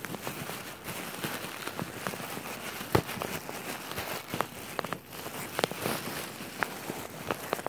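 Irregular crackling and rustling with scattered small clicks and one sharper knock about three seconds in, as of walking and handling during a dog walk.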